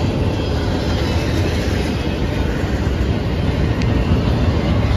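Double-stack intermodal freight train passing, its well cars' steel wheels running steadily on the rails.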